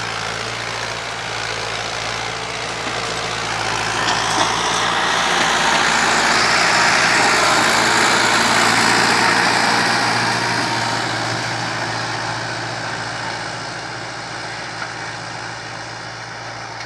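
Fiat 640 tractor's diesel engine running steadily, growing louder through the middle and fading again toward the end.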